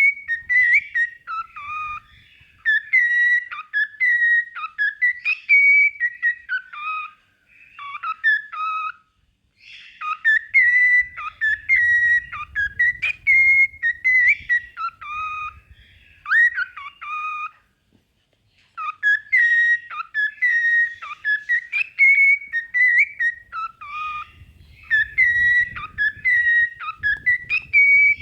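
Cockatiel singing: a run of quick whistled notes that glide up and down, in phrases broken by short pauses about eight and eighteen seconds in.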